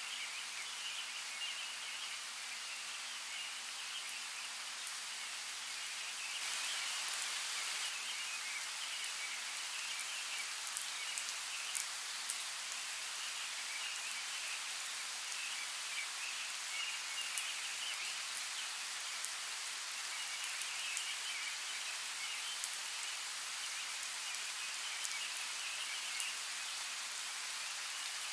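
Steady rain falling, with scattered individual drops ticking out of the patter; the rain grows heavier about six seconds in and stays so.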